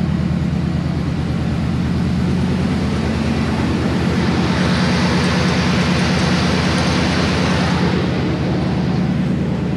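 A 1997–98 GMC Sierra 2500 pickup's engine running steadily, with a fast, even firing pulse. It swells a little louder for a few seconds in the middle.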